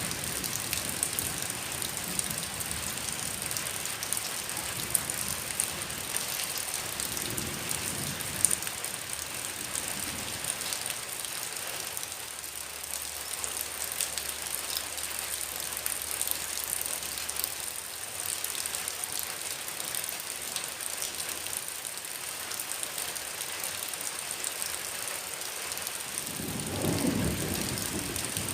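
Heavy rain falling steadily, with scattered sharp drips standing out. A low rumble swells briefly near the end and is the loudest part.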